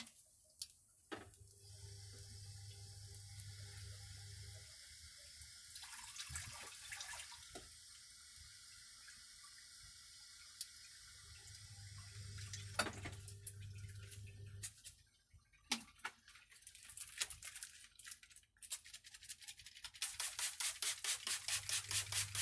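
Faint hiss and light crackle of noodles sizzling in a wok over a low flame, with a few sharp clicks. Near the end comes a quick run of even hissing pulses, several a second.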